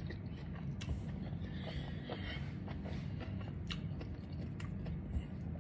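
Faint chewing of a mouthful of soft food, with a few light clicks.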